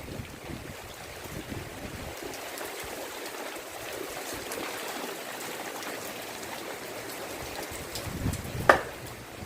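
Steady rain falling, an even hiss, with wind gusting on the microphone at the start and near the end. A short sharp sound near the end is the loudest moment.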